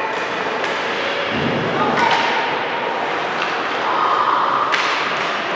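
Basketball game heard in a gym: indistinct voices and calls echoing through the hall, with two sharp knocks, about two seconds in and again near the end.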